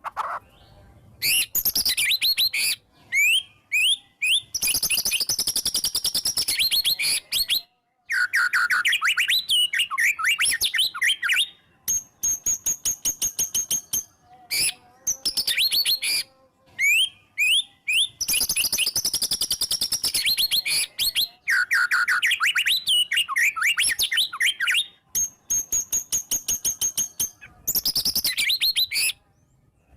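White-rumped shama (murai batu) in full, loud song: long phrases of very rapid-fire rattling notes mixed with clear whistles and quick pitch glides, broken by short pauses.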